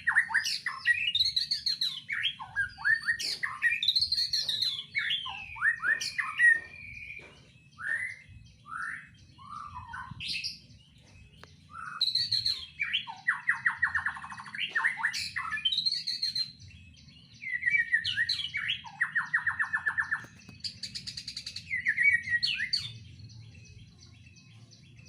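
White-rumped shama (murai batu) singing a long, varied song full of imitated phrases: clear whistles, fast rattling trills and rising and falling sweeps, in runs with short pauses. The singing stops near the end.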